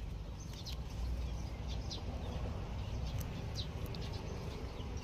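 Birds chirping now and then, short high chirps, over a steady low background rumble.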